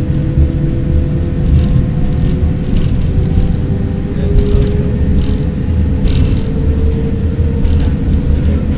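Train running, heard on board: a loud low rumble with a steady hum and a faint whine slowly rising in pitch, and a few scattered clicks.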